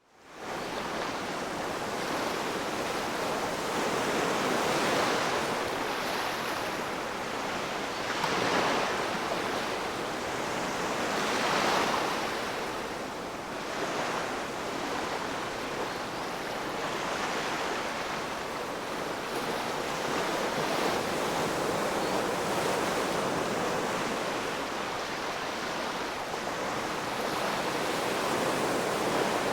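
Ocean waves breaking and washing on the shore, a continuous surf noise that swells every few seconds as each wave comes in. It fades in at the very start.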